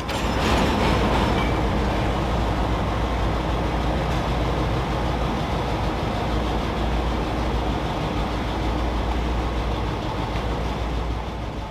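Railway train running, a steady heavy rumble with a deep low hum that fades out near the end.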